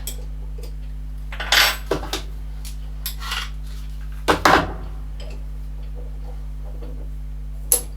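Metal tools and parts clinking and knocking as they are handled and set down, a handful of separate clanks over a steady low hum.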